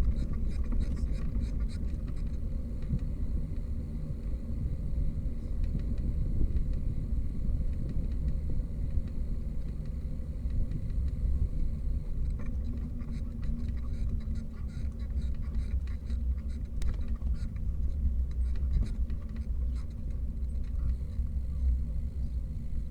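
Steady low rumble of wind and road noise picked up by a bicycle-mounted camera while riding, with scattered light clicks and rattles.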